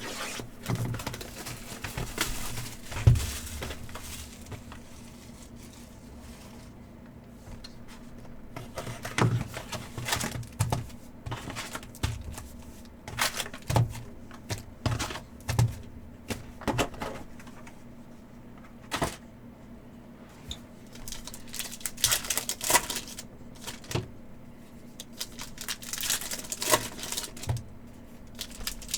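Upper Deck hockey card packs being opened by hand: foil wrappers crinkling and tearing, with sharp clicks of cards being handled, in irregular bursts.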